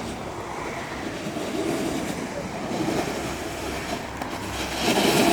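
Freeboard wheels rolling over pavement with a grinding, clattering noise that grows louder near the end.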